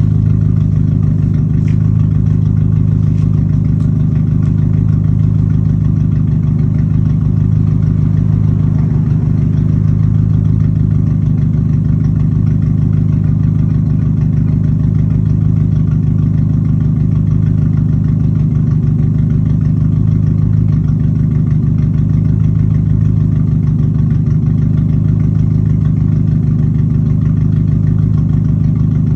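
Dodge Neon's four-cylinder engine idling steadily through a straight-piped exhaust.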